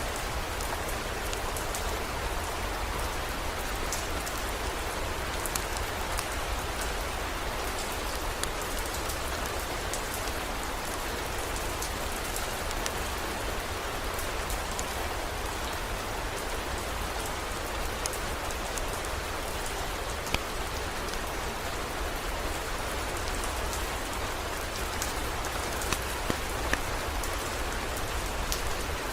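Steady heavy rain, with scattered sharper drop ticks and a few louder single taps about 20 seconds in and near the end.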